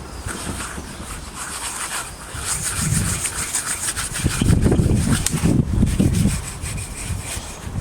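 A cloth scrubbing over a carved wooden figure in uneven rubbing strokes, cleaning off dust and grease; the strokes are loudest about halfway through.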